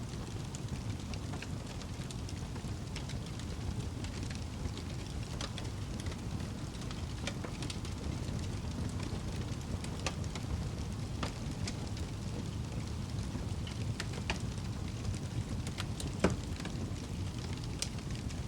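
Wood fire burning in a fireplace: a steady low rumble with scattered sharp crackles, and one louder pop near the end.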